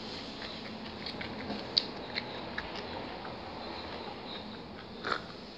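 Close mouth noises of someone eating: chewing with a few short, sharp clicks and smacks, the loudest about two seconds in, and one brief louder sound near the end.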